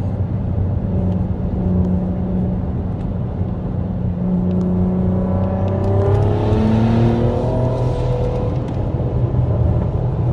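Engine of a big-turbo car under way, running steadily and then rising in pitch as it accelerates from about four seconds in, with a brief rush of hiss at the peak before the note settles lower.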